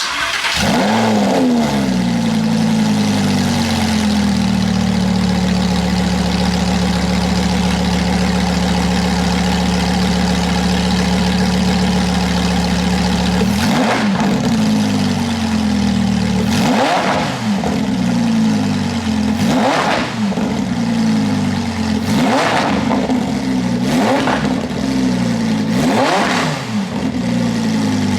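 Lamborghini Huracán's V10 cold-started: it catches with a rev flare and settles to a steady fast idle, then from about halfway is blipped six times, the revs rising and falling each time.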